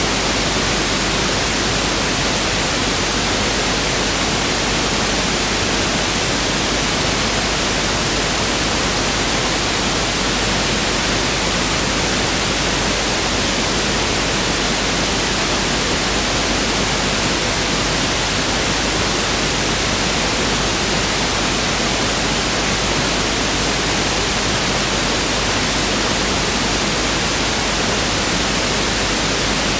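Pink noise (1/f) test signal: a steady, even hiss that does not change.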